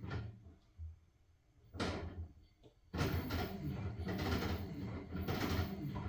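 LG washing machine tumbling a load of blankets in water, sloshing with soft thuds. The tumbling dies away about half a second in, with one short swoosh near two seconds, and starts again at about three seconds as the drum resumes turning.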